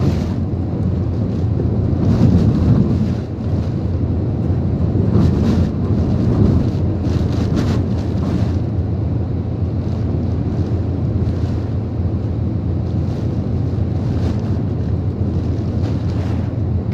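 Typhoon wind and rain buffeting the microphone, a steady heavy rumble with brief gusts every second or two.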